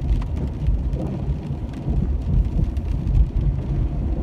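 Car road noise heard from inside the cabin while driving slowly: a steady low rumble from the tyres and engine, with scattered light clicks and ticks.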